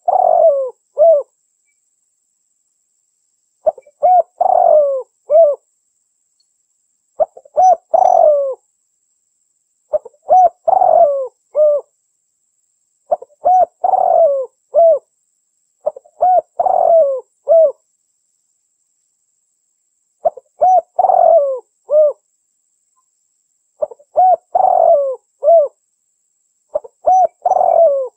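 Female derkuku (spotted dove) cooing in repeated phrases, one every three to four seconds. Each phrase is a short note or two, then a longer coo, then a clipped final note.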